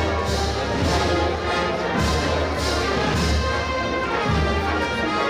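Brass marching band playing a processional march, with a steady bass drum and cymbal strokes keeping the beat.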